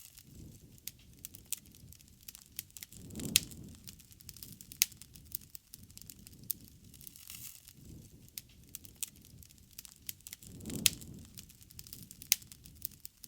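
Wood bonfire crackling, with irregular sharp pops from the burning wood over a low rumble of the flames that swells twice, about three seconds in and again near eleven seconds.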